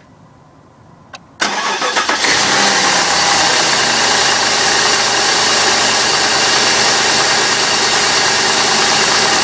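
A 4.6-litre V8 cold-started at about 9 °F: a click about a second in, then a brief crank at about a second and a half that catches at once and settles into a steady idle.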